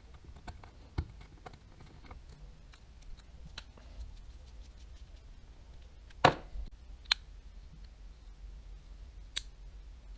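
Scattered sharp clicks and taps of small baitcasting-reel parts and hand tools being handled, with one louder click about six seconds in.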